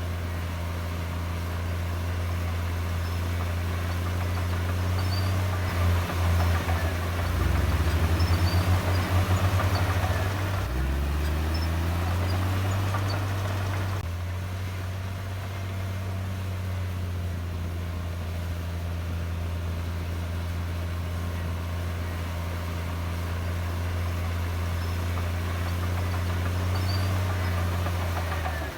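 Heavy diesel engine running steadily. About six seconds in it grows louder and wavers, then rises in pitch around eleven seconds before settling back to a steady run.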